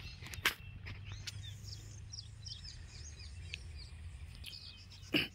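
Small birds chirping, many short high calls scattered throughout, over a steady low rumble. A sharp click comes about half a second in and another, louder, near the end.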